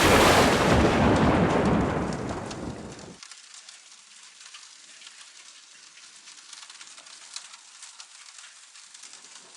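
A sharp thunderclap starts at once and rumbles on for about three seconds before breaking off abruptly. Steady rain patters on through the rest, with small drips ticking.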